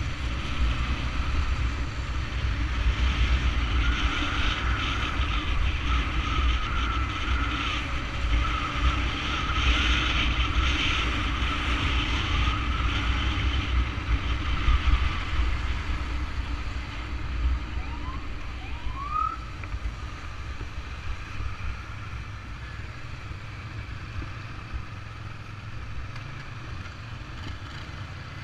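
Riding noise from a convoy of ambulance motorcycles: a steady low rumble of engines, road and wind. A siren warbles from about four seconds in until about thirteen seconds, and two short rising siren whoops follow a few seconds later.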